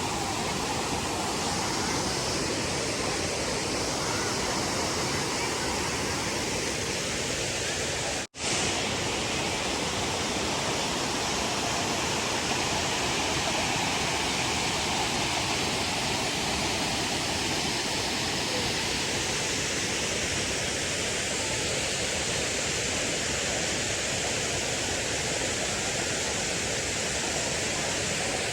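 Waterfall rushing: a steady, even wash of falling water, cut off by a split-second drop-out about eight seconds in.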